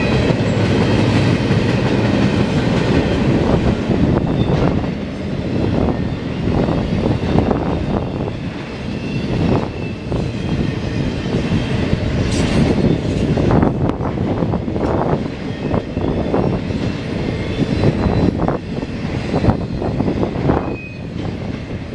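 Double-stack intermodal freight cars rolling past: a steady rumble of steel wheels on rail, broken by repeated clickety-clack of the wheels, with a faint high wheel squeal now and then.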